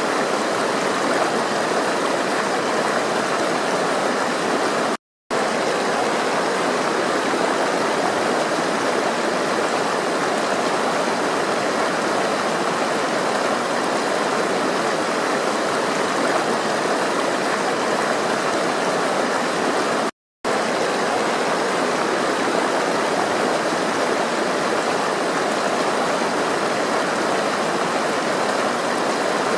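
Steady rush of flowing water, as of a stream. The sound drops out to silence for a split second twice: about five seconds in and about twenty seconds in.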